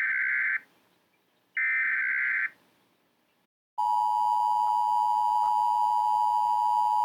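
Emergency Alert System SAME header data bursts, a rapid warbling digital squawk around 2 kHz lasting just under a second each: one ends about half a second in and another follows about a second later. About four seconds in, the steady EAS attention tone starts and holds.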